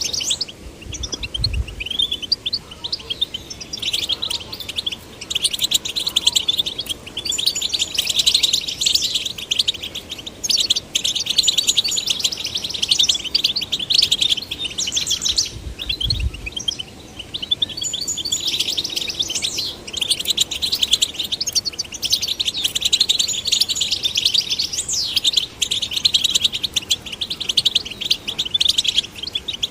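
European goldfinch song: a fast, continuous twittering with tinkling trills and chirps that runs on with only brief breaks. Two short low thuds sound, one near the start and one about halfway through.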